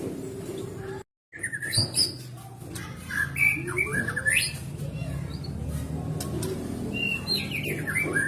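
White-rumped shama (murai batu) singing in short, sweeping whistled phrases over a steady low background hum. The sound cuts out completely for a moment about a second in.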